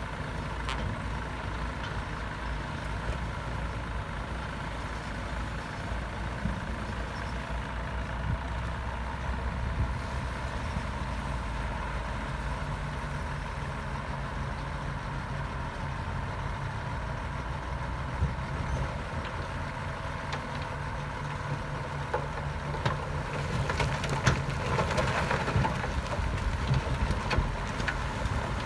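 Komatsu D68 bulldozer's diesel engine running steadily under work, with a continuous low drone. Metallic clattering and rattling grows louder near the end.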